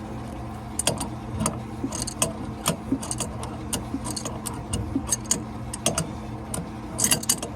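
Metal clicking and clinking of an adjustable wrench working a bolt that draws a pump impeller out, in irregular strokes over a steady low hum.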